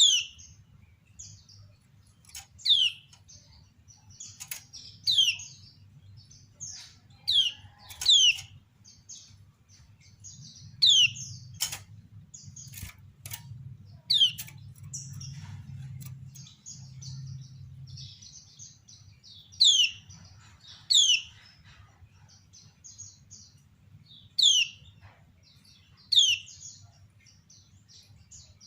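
Kecial kuning white-eyes calling: short, sharp notes that sweep steeply downward, repeated every two to three seconds, with softer high twittering chirps between them. These are the female's 'ciak' calls, used to lure other kecial into answering. A low steady hum runs underneath.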